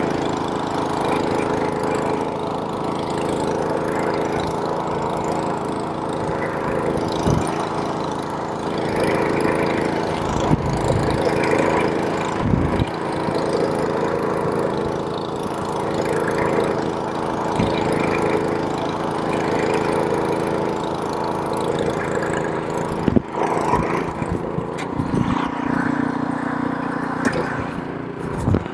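Gas snowblower engine running steadily while it throws snow, with a few brief knocks and thumps along the way.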